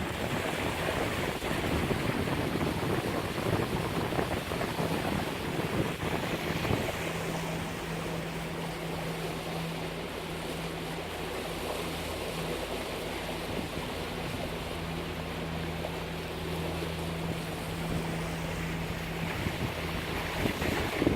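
Water rushing and slapping along the hull of a catamaran under engine power, with wind buffeting the microphone. A steady low engine drone comes up about five seconds in and fades out near the end.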